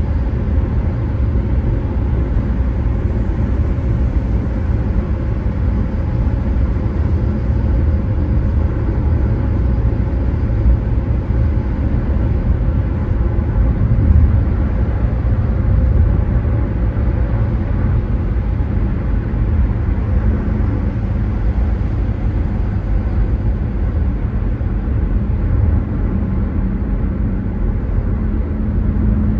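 Car driving at a steady speed: a continuous low rumble of road and engine noise with no sharp changes.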